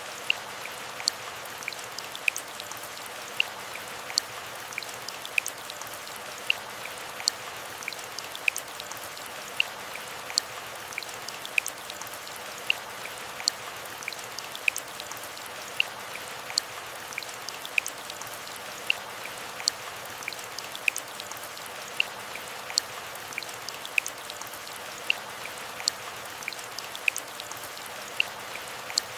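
Gentle steady rain, an even hiss with larger drops ticking sharply about once a second.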